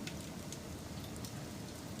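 Wood fire burning: a steady low rush with sharp crackles and pops scattered irregularly through it.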